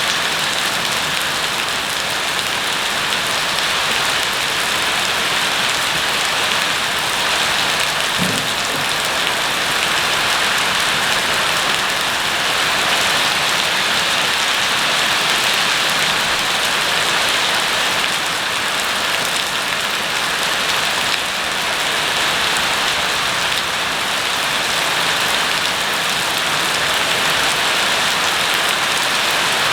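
Steady rain falling and water hitting the ground, a dense even patter. A single faint low knock about eight seconds in.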